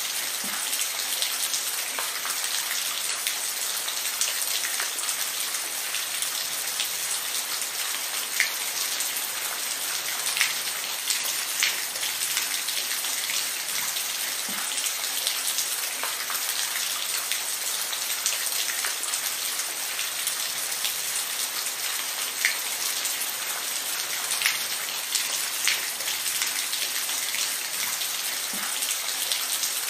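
Steady rain falling, an even hiss with scattered louder individual drops hitting a surface.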